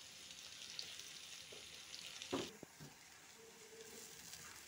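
Okra in gram-flour masala sizzling faintly in oil in a non-stick pan as a silicone spatula stirs and scrapes it. A sharp knock of the spatula against the pan comes about halfway through, after which the sizzle is quieter.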